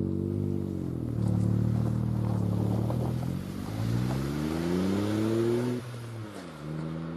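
Three-cylinder car engine revving. Its pitch holds, dips, then climbs steadily before dropping sharply about six seconds in, and then settles at a steady lower pitch.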